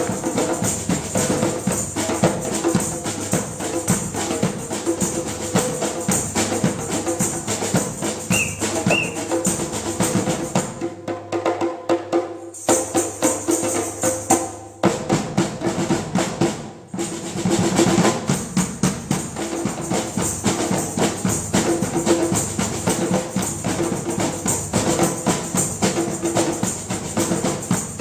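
A drum ensemble playing a fast, dense rhythm. The high end drops out briefly about halfway through.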